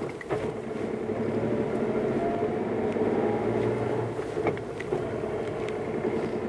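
Suzuki Jimny JB64's 660 cc turbocharged three-cylinder engine running steadily at low speed, heard from inside the cabin, with tyres rolling over a gravel track. A few short knocks from bumps come just after the start and again about four and a half seconds in.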